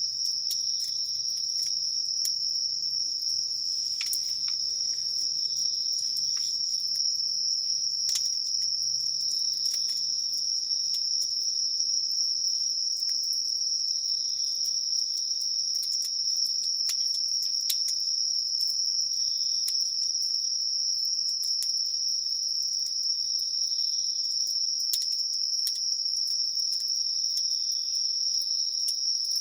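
Evening insects chirring in one steady, unbroken high-pitched drone. Scattered sharp crackles from a wood campfire punctuate it.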